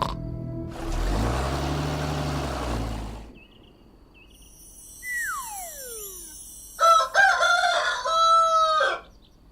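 A rooster crowing, one loud call of about two seconds in several segments, in the latter half. Earlier there is a noisy whoosh with a low hum and a single falling whistle-like glide.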